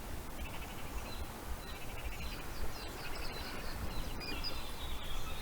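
Several birds chirping and calling in short high notes, growing busier partway through, over a steady low rumble.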